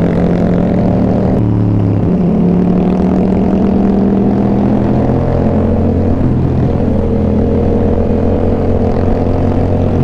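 Yamaha XSR700's parallel-twin engine running steadily under way, a loud continuous drone whose pitch shifts a little a couple of times.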